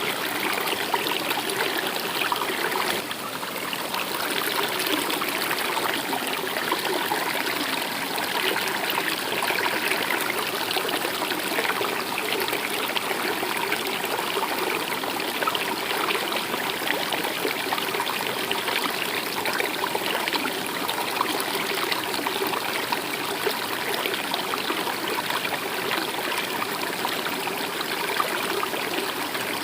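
Water of a stream flowing and trickling in a steady, unbroken rush.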